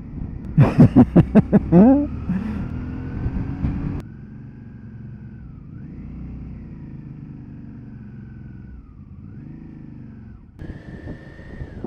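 Motorcycle engine on the ride: a quick series of about six loud pulses in the first two seconds, then a steadily rising note as it pulls. About four seconds in it drops abruptly to a quieter run whose pitch rises and falls with the throttle, and near the end it jumps abruptly louder again.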